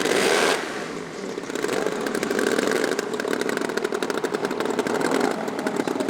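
Small two-stroke petrol engines of a large RC scale Lancaster running at low throttle, a fast, buzzy rattle like a chainsaw at idle. There is a brief louder rush at the very start.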